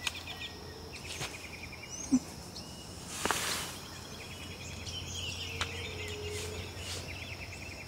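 Birds chirping and trilling in repeated short phrases over steady outdoor background noise, with a brief noise about three seconds in.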